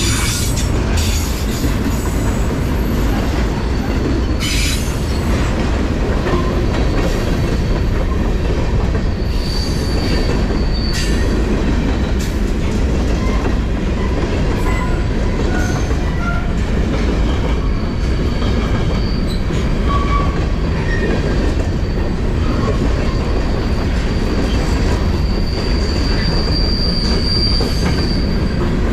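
A CPKC freight train's cars, autoracks followed by covered hoppers, rolling past close by: a steady rumble of steel wheels on rail with scattered clicks. A thin high wheel squeal comes in about ten seconds in and again near the end.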